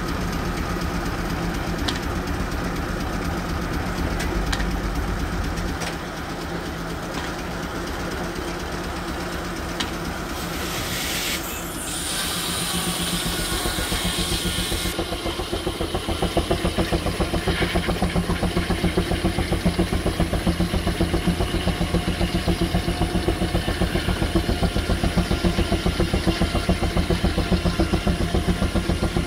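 Steam traction engine running with a rapid, steady exhaust chuff. A burst of steam hiss comes in about ten seconds in and lasts a few seconds, and the exhaust beat gets louder from about sixteen seconds.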